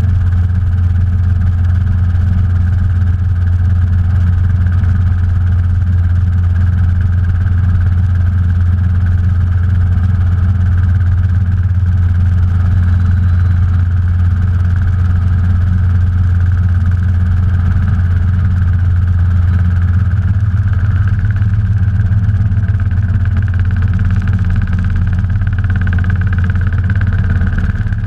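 Robinson R22 helicopter in flight, heard from inside its cabin: the piston engine and rotor make a loud, steady, deep drone that hardly changes.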